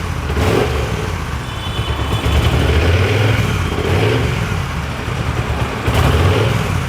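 Triumph superbike engine running, with the throttle blipped so the note swells up a couple of times.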